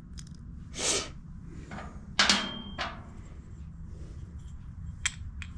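Small metal carburetor parts being handled: a short rustle, then a sharp metallic clink with a brief ring a little after two seconds in, and light clicks, one near the end.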